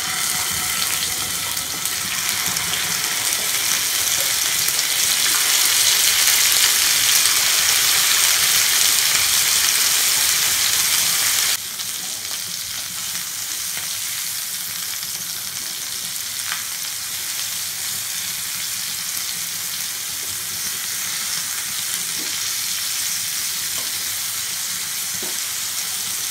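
Marinated chicken pieces sizzling as they shallow-fry in hot oil and ghee in a nonstick pan. The sizzle is loudest in the first half, then drops suddenly to a steadier, quieter sizzle with a few faint clicks.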